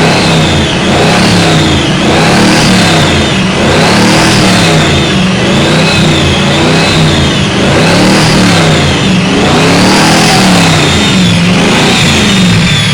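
Supercharged Ford Mustang engine being blipped up and down over and over, about once every second or so, loud. A high whine rises and falls with each rev.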